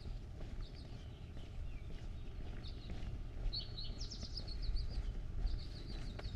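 A songbird singing: a few short chirps, then rapid trills of high notes about three and a half seconds in and again near the end, over a low rumble.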